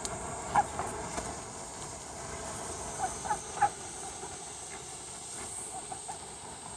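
Ducks giving short, scattered quacks, a few close together around the middle, over a steady hiss of falling rain.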